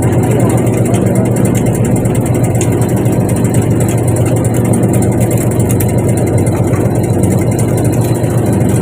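Fishing boat's engine running steadily with an even low drone.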